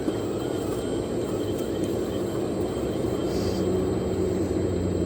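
Radio-controlled 1/14-scale model machinery running: a steady low drone with a faint whine.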